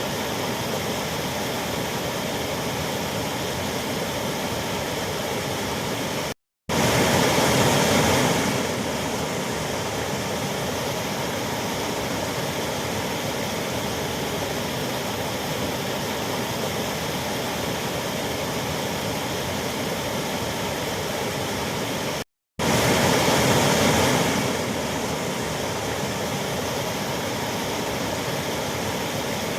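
Waterfall rushing: a steady, even roar of falling water. It cuts out to silence for a split second twice, and after each break runs louder for a couple of seconds before settling back to its steady level.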